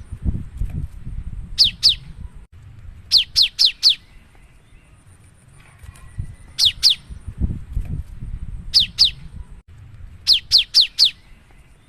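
Cinereous tit (gelatik batu) singing vigorously: repeated phrases of two to four quick, sharp notes that sweep downward from very high to high pitch, a phrase every one to two seconds, over a low background rumble.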